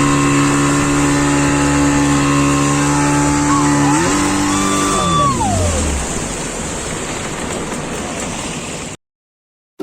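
Speedboat engine running steadily at speed, then throttling back about four seconds in, its pitch falling over a couple of seconds. A wash of water and wind noise is left, and it cuts off abruptly near the end.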